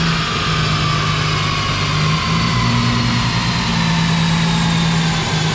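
Infiniti G35 sedan's 3.5-litre V6 running steadily on a chassis dyno, with a high whine that slowly drops in pitch.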